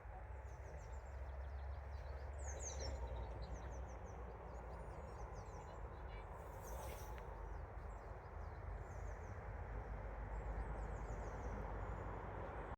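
Small songbirds chirping repeatedly in quick high twitters over a steady rushing background noise.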